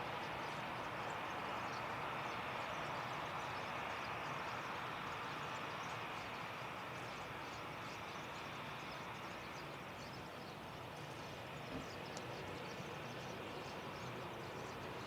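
Distant jet aircraft noise: an even rushing hiss with no clear engine tone, slowly fading.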